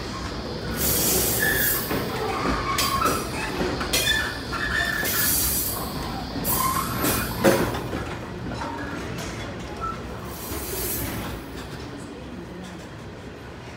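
Freight train wagons rolling past, with short high wheel squeals over the rumble, dying away toward the end.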